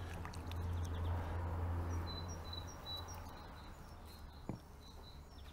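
Small birds chirping in short, repeated high notes, over a low steady rumble that fades away about halfway through.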